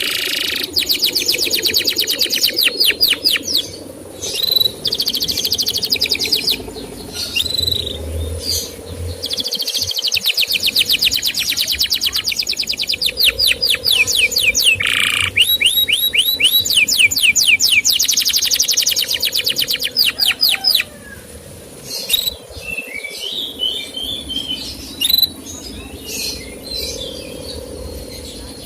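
Male canary singing long rolls of rapid, evenly repeated chirps, several runs of a few seconds each with short breaks, then looser scattered notes near the end.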